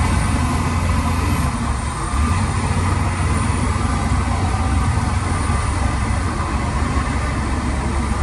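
Heavy construction machine's engine running steadily, a deep even hum with no sharp knocks or changes.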